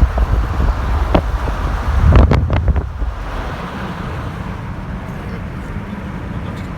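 Wind buffeting the microphone in loud gusts for about three seconds, then settling into a steady low vehicle drone.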